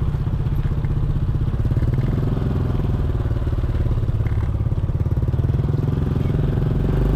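Motorbike engine running steadily as the bike is ridden, an even pulsing hum with a strong low rumble.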